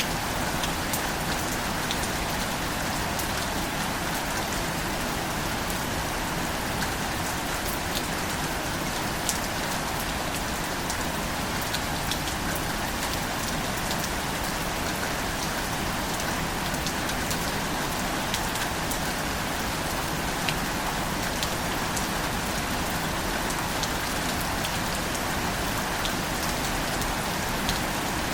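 Steady rain falling, with scattered sharp drip ticks over an even hiss.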